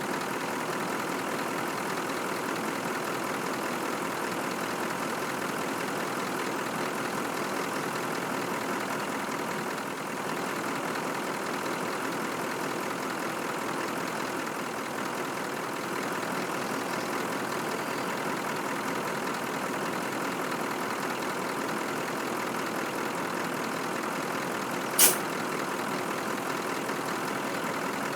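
Scania truck's diesel engine running steadily at an even level, with one brief sharp hiss near the end.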